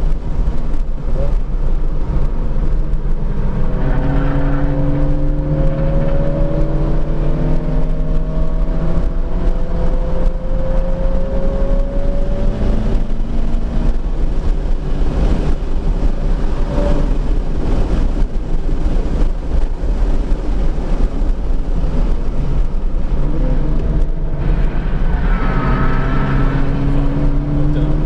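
Subaru BRZ's flat-four engine heard from inside the cabin, pulling through long accelerations with its pitch climbing slowly, easing off in between, over a steady low road and wind rumble.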